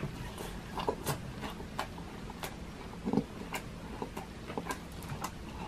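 A man chewing a bite of fried milkfish (bangus) belly: irregular crunchy clicks and wet mouth sounds, with a short low mouth sound about three seconds in.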